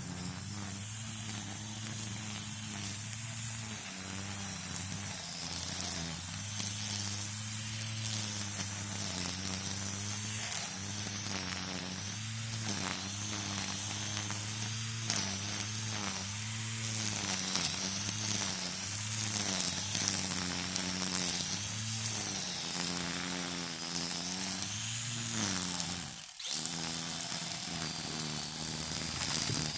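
String trimmer (weed eater) running as it cuts, its motor pitch rising and dipping with the throttle and load, over a hiss of line whipping through the weeds. About 26 seconds in the sound drops out briefly before picking back up.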